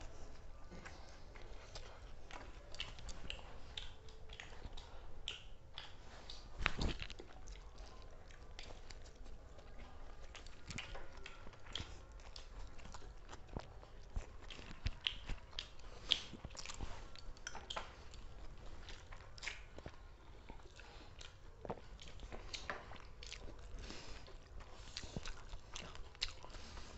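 People eating quickly: chewing and biting food, with scattered small clicks and one louder knock about seven seconds in.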